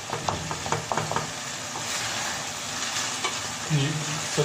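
Chicken curry with mashed pear paste sizzling as it is fried in the pan. For about the first second and a half a spoon scrapes and clicks against the pan as it is stirred.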